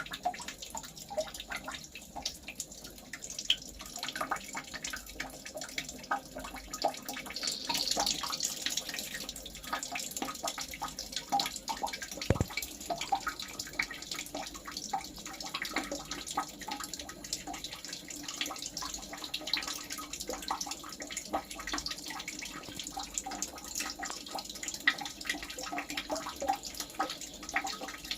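Water trickling and dripping, with many small irregular drips and splashes.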